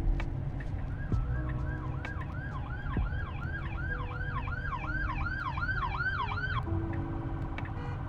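Emergency-vehicle siren in a fast yelp, its pitch sweeping up and down about two and a half times a second, starting about a second in and stopping near the end, over a steady low road rumble.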